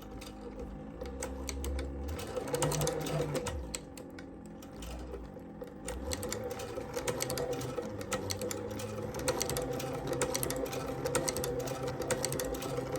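Techsew 2900 leather patch and cobbler sewing machine stitching through leather: its clutch-driven servo motor hums steadily under a fast run of needle-stroke clicks. The stitching thins out for a couple of seconds around the middle, then runs on steadily.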